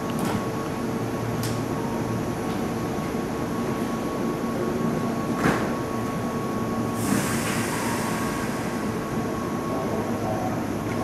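A Keihan 2600 series electric train standing at a platform, its equipment giving a steady hum with a held whine. A few light knocks, a sharp knock about five and a half seconds in, then a hiss of released air about seven seconds in that fades over two seconds.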